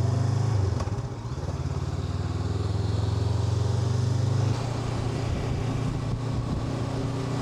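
Honda NX500's parallel-twin engine running steadily on the move, easing off slightly about four and a half seconds in.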